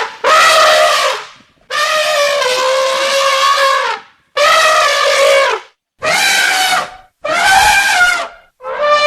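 Elephant trumpeting: a series of about six loud, brassy calls, each one to two seconds long, with short pauses between them.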